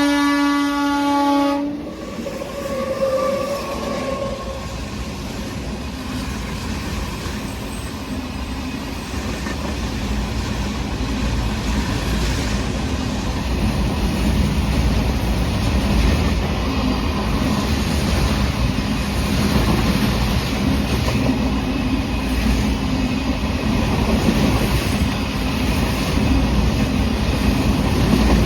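Indian Railways goods train: its locomotive horn sounds and cuts off about two seconds in. Then comes a long, steady rumble and rattle of the wagons rolling past on the rails, slowly growing louder.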